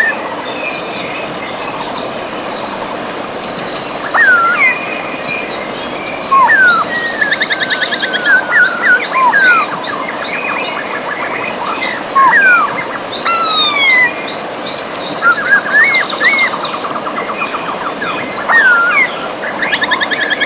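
River water running steadily, with several birds singing over it from about four seconds in: short whistled notes that swoop up and down, and fast trills.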